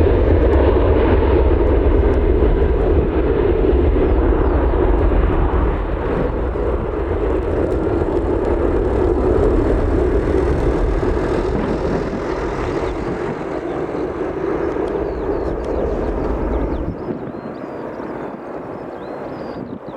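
Passing aircraft's engines: a loud, steady rumble that slowly fades, its deep low end dropping away near the end.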